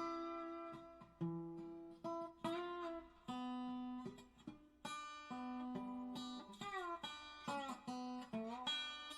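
Background music on acoustic guitar: single plucked notes and strums, with several notes sliding in pitch near the end.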